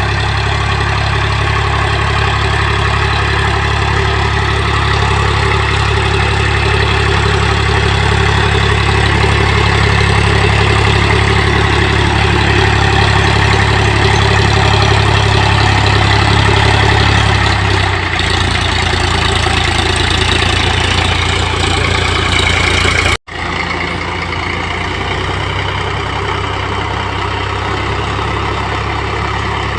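Indo Farm 3035 DI tractor's three-cylinder diesel engine running steadily. Its note shifts slightly about two-thirds of the way through, and the sound drops out for an instant soon after.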